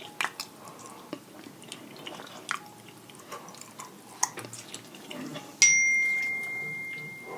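Close-up wet chewing and small mouth clicks of someone eating seafood boil. About two-thirds through, a sharp strike sets off one clear, high, bell-like ring that fades slowly over about two seconds.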